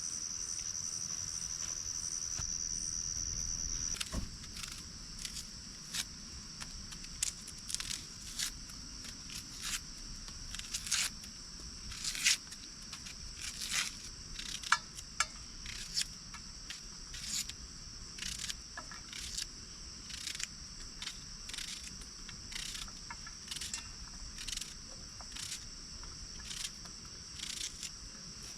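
Crickets chirping in a steady high-pitched trill. From about four seconds in, irregular sharp clicks or crackles come one or two a second over the top.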